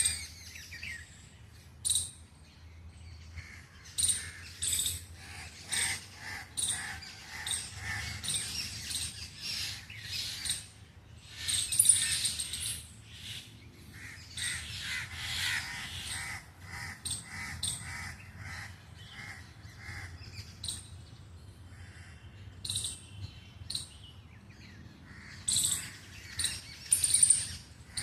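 Several birds calling: dense, repeated short chirps mixed with harsher caw-like calls, busiest in the middle and again near the end.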